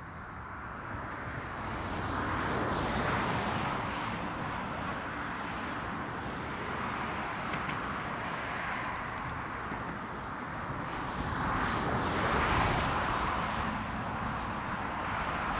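Passing vehicle noise: a rushing sound that swells and fades twice, once about three seconds in and again later on.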